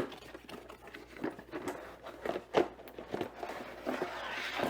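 A product box being opened and the parts inside handled: irregular clicks and knocks, with a crinkling rustle of packaging near the end.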